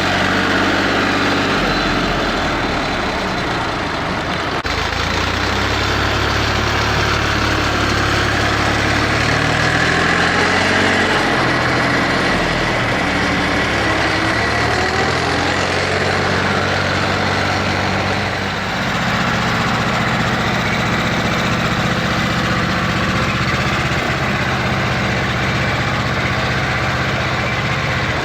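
Eicher tractor's air-cooled diesel engine running steadily, its pitch shifting about two-thirds of the way through.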